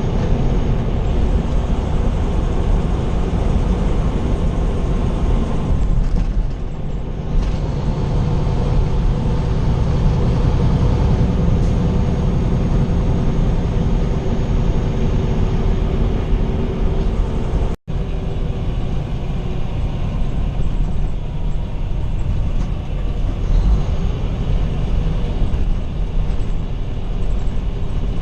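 Semi truck driving on the highway, heard from inside the cab: a steady engine drone and road noise. The sound cuts out for an instant about two-thirds of the way through.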